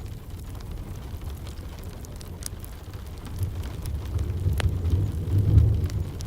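Wood fire crackling, with scattered sharp pops (one stands out past the middle), over a low rumble that swells louder in the second half.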